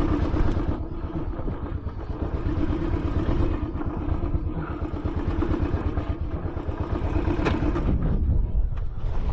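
Royal Enfield Classic 500's single-cylinder engine running steadily.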